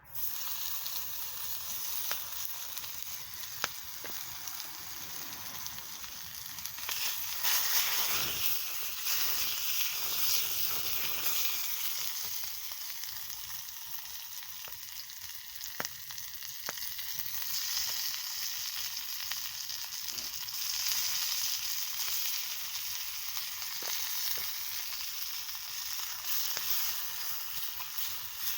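Food frying in a hot pan, a steady sizzle that swells and eases, with scattered small pops and ticks.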